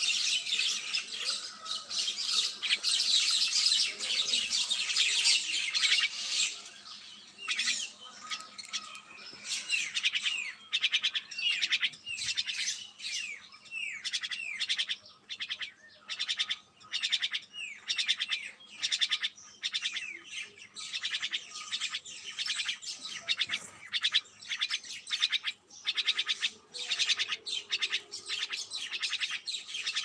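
Small birds chirping: a dense tangle of high chirps for the first several seconds, then a steady run of short, quickly falling chirps, about two a second.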